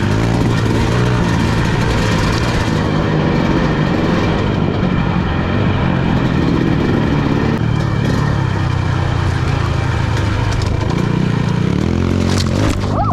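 Enduro motorcycle engine running under a rider off-road, its revs rising and falling as the throttle changes.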